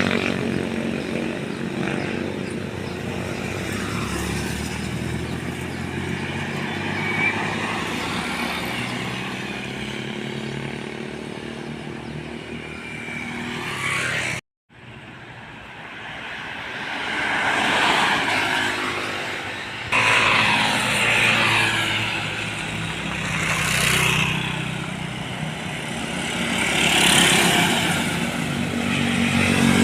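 Road traffic passing close by. In the first half a heavy vehicle's diesel engine runs with a steady low note. After a sudden break about halfway, a string of vehicles rushes past one after another, a few seconds apart.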